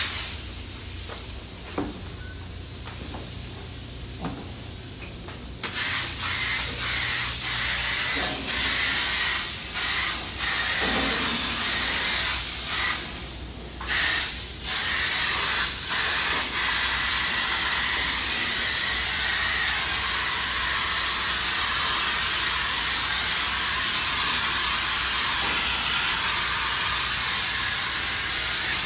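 Compressed-air paint spray gun hissing as paint is sprayed, softer for the first few seconds, then loud and steady with one short break about halfway through.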